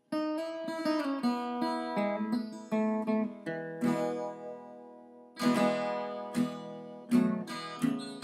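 Acoustic guitar music: a quick run of plucked notes, then a few ringing strums that die away between them.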